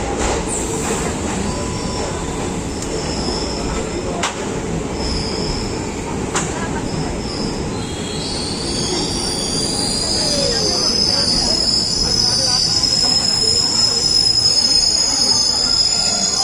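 Passenger train running on the rails, heard on board: the wheels give short high squeals a few times, then squeal continuously in several high tones from about halfway, as the running noise grows louder.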